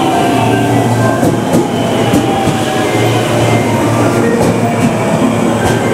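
JR West 521 series electric train pulling into the platform close by, slowing, its wheels clicking over rail joints several times.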